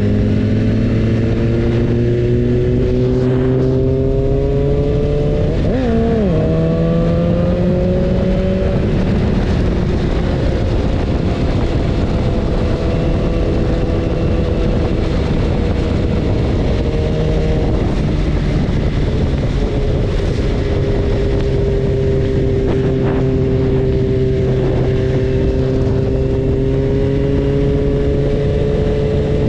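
BMW S1000RR's inline-four engine running under way over steady wind noise. The engine note climbs through the first several seconds with a quick shift about six seconds in, then holds fairly steady, stepping down to a new pitch around eighteen to twenty seconds in.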